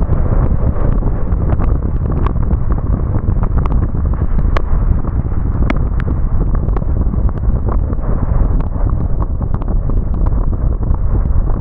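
Car driving in the rain: a steady low rumble of road and wind noise, with scattered sharp ticks of raindrops striking.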